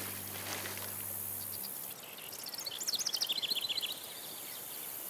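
A bird sings a quick run of high chirps that fall in pitch, about two seconds in, over a steady outdoor background hiss. A low held tone fades out early.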